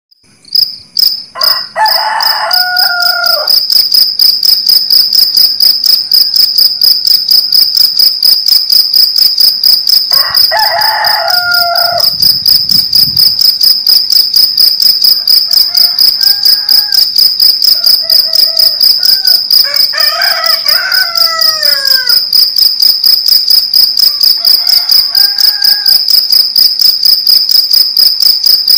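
Crickets chirping in a loud, high, evenly pulsing rhythm. Roosters crow over them: two clear crows, one near the start and one about ten seconds in, then several fainter crows later on.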